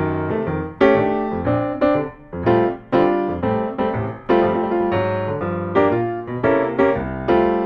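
Background music: a piano playing a light melody in separate struck notes.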